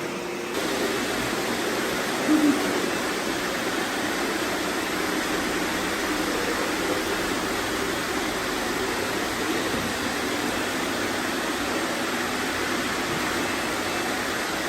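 Many robot vacuums running at once, a steady even noise of motors and brushes, with one brief louder sound about two seconds in.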